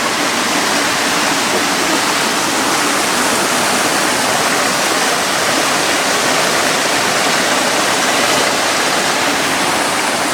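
Water of a mountain stream cascading over rocks: a loud, steady rush.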